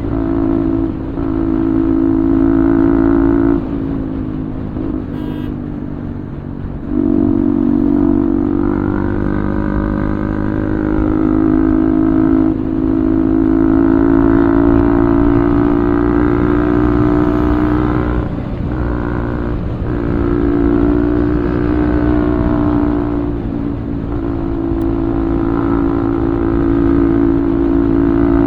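Bajaj 200cc single-cylinder motorcycle with an Akrapovic full-system exhaust, ridden under throttle. The exhaust note holds steady and drops off briefly several times as the throttle is closed and reopened.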